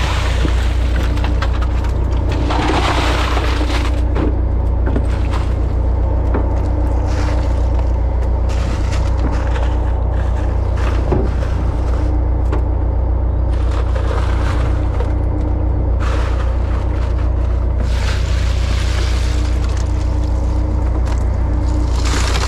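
A fishing trawler's diesel engine running steadily with a deep, constant hum, with a few swells of hiss over it.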